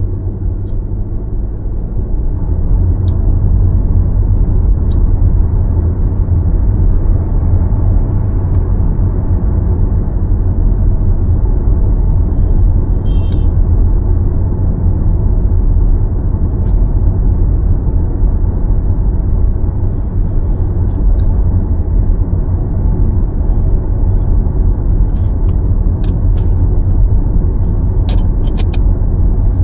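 A car being driven, with a steady low rumble of road and tyre noise. A few light clicks come near the end.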